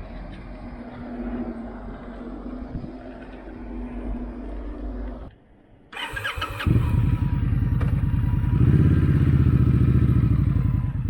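Indian Scout V-twin motorcycle engine running under way, loud and pulsing, getting louder in two steps in the second half. Before that comes a few seconds of quieter background noise and a brief drop-out.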